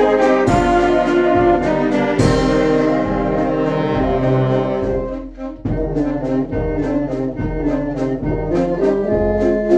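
Children's brass band playing: held brass chords over an even beat of percussion strikes. The band dips briefly about five seconds in, then comes back in at full strength.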